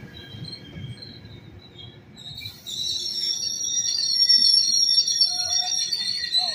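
Metrolink bilevel commuter cars rolling slowly past with a low rumble; about two and a half seconds in a loud, steady, high-pitched metallic squeal from the train's running gear sets in and carries on.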